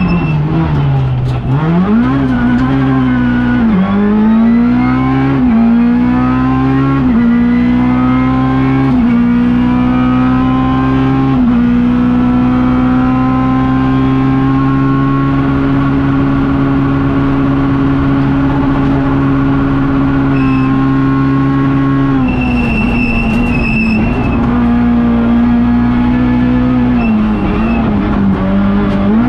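Rally car engine heard from inside the cabin, accelerating hard through the gears: its pitch climbs in several quick sweeps, each cut by an upshift, then holds a steady high note at full throttle for about ten seconds. It eases off about two thirds of the way through, with a few brief high squeals, and picks up again near the end.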